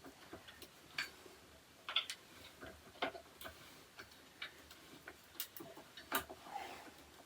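Faint, irregular light clicks and taps of flat-pack shoe rack parts being handled and fitted together, a few small knocks spread out with quiet between them.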